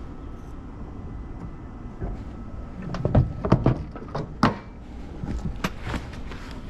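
Knocks and clatter of steel cut nails being handled and set down on a metal work surface, in a quick cluster about halfway through and a few lighter taps after.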